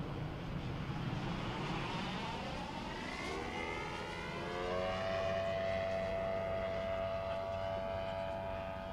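Gas engine of a giant-scale R/C YAK-54 aerobatic model plane in flight, its note rising in pitch about three to five seconds in and then holding a steady high tone.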